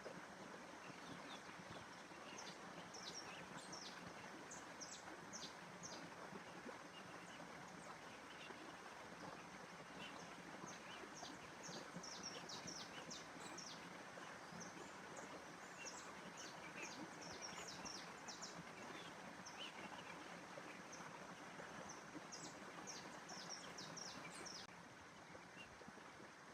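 Faint birdsong: groups of short, high chirps coming in bursts, over a steady background hiss.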